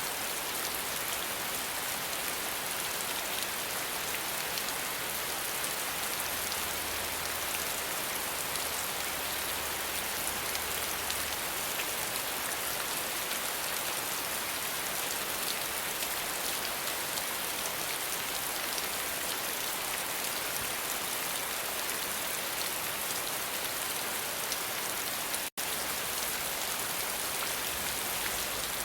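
Steady rain falling, a dense, even patter of drops. The sound cuts out for an instant near the end, then resumes.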